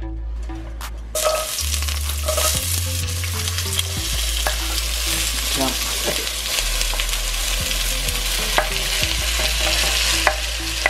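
Chopped onion and tomato sizzling as they fry in hot oil in a stainless steel pan, the sizzle starting about a second in. A few clicks and scrapes of a wooden cutting board against the pan come through it.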